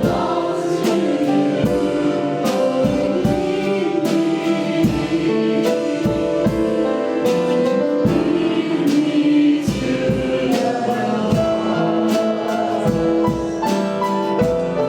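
Worship band and congregation singing a gospel-style praise song, with a steady beat.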